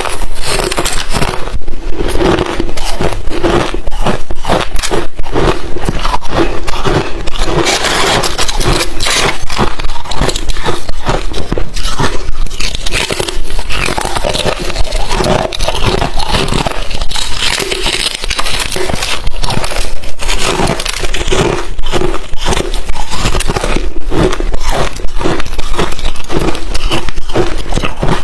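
Close-miked crunching of crushed ice chips being chewed, a dense run of loud, irregular cracks and crackles.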